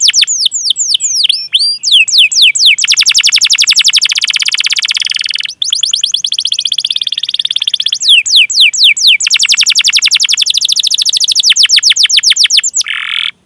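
Domestic canary singing: a few spaced, falling chirps, then long, fast rolls of repeated downward-sweeping 'cuit cuit' notes, broken briefly about halfway, cutting off suddenly near the end.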